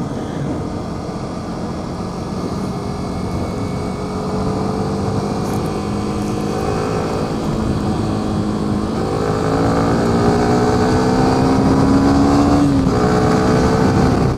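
Motorcycle engine pulling under acceleration, its pitch rising steadily, with brief dips in pitch about nine seconds in and again near the end as it shifts up a gear.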